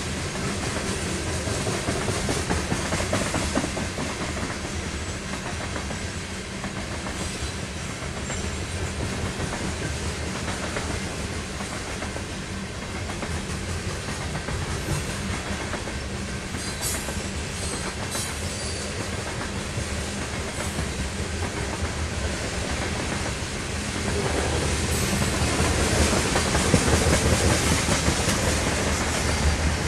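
Loaded grain train's covered hopper cars rolling past, steel wheels running steadily on the rails. The sound grows louder about six seconds before the end as the diesel pusher locomotive at the rear of the train approaches.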